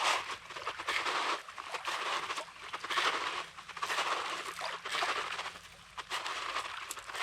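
Footsteps crunching on coarse, rocky beach sand, about one step a second, with a brief pause near the end.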